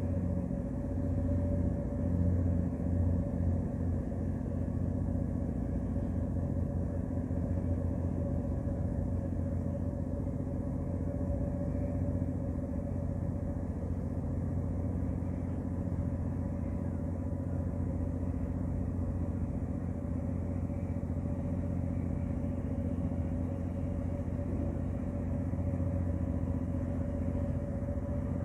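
Ship's engine running steadily: a low, unbroken drone with a constant hum.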